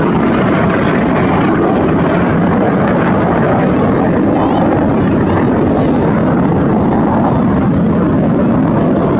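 Aircraft engine noise, a steady loud rumble with no breaks.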